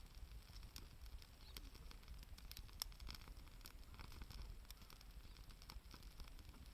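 Campfire crackling faintly: scattered small pops and snaps, with one sharper pop about three seconds in.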